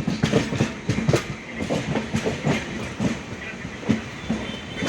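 Passenger train running, heard from aboard: the wheels clatter over rail joints amid a steady rumble and the rattle of the carriage.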